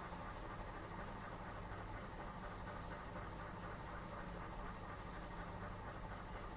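Washing machine running on a strong cycle: a steady mechanical hum with a low drone, unchanging throughout.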